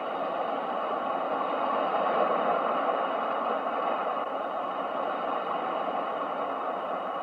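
Ocean surf: a steady rushing wash of waves that swells to a peak about two seconds in and then slowly eases off.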